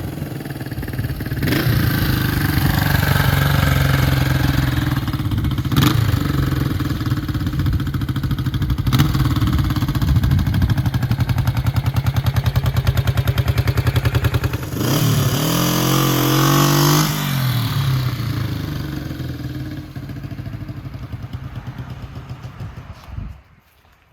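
1972 Honda CL350's air-cooled parallel-twin engine running steadily at low speed, revved up briefly about two-thirds of the way through, then cut off suddenly near the end.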